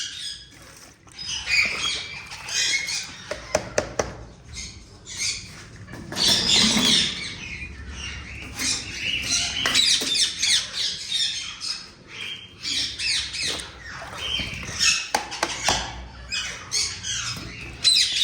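Indian ringneck parakeets in an aviary squawking and calling over and over, with a few sharp knocks along the way.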